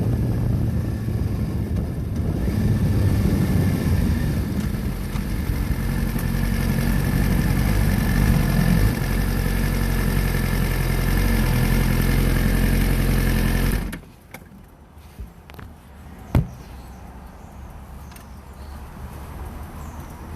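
Motorcycle engine running under a loud hiss of wind. The sound ends suddenly about fourteen seconds in, leaving a much quieter background, and a single sharp click follows a couple of seconds later.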